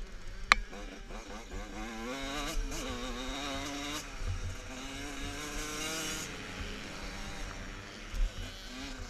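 Motocross bike engines revving, their pitch rising and falling as they accelerate, then fading after about six seconds. A sharp click about half a second in.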